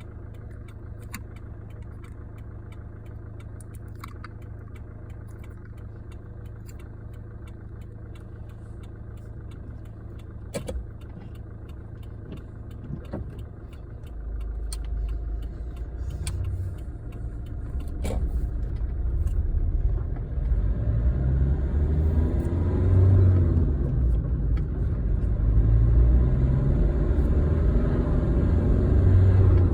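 A car's engine runs at a steady low hum with scattered sharp clicks. About halfway through, a louder low rumble of engine and road noise comes in and keeps building, as the car gets under way.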